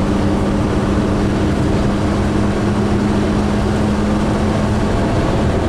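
Class A motorhome cab at highway speed: a steady engine drone with a constant rush of road and tyre noise.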